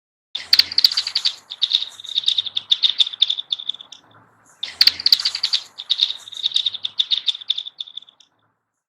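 Pebbles skipped across thin frozen pond ice, twice. Each throw sets off a quick run of high, ringing, metallic chirps that lasts about four seconds and fades out.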